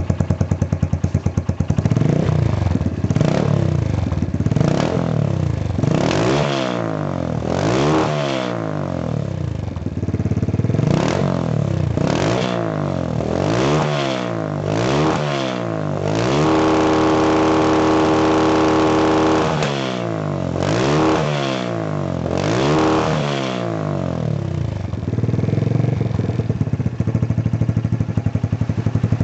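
Honda FTR223 motorcycle's air-cooled single-cylinder four-stroke engine, just started, idling and then revved again and again with short throttle blips, once held high for about three seconds, before settling back to idle near the end.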